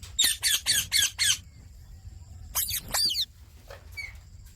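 Indian ringneck parrot squawking: a quick run of about five harsh calls in the first second and a half, then two more near the middle and a faint one near the end.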